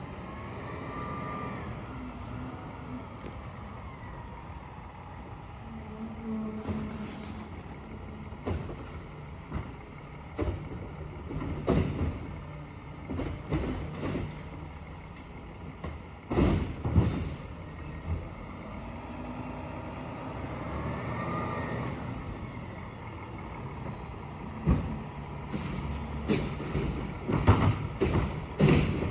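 Peterbilt McNeilus side-loader garbage truck running, its engine pitch rising and falling twice as it works, with a series of clanks and bangs from the loading and dumping of carts, thickest near the end.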